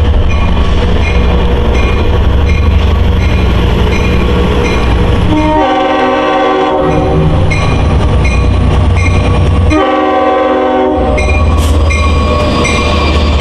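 Long Island Rail Road train running loudly past with a steady low rumble, and its horn sounded in two blasts of about a second each, about four seconds apart.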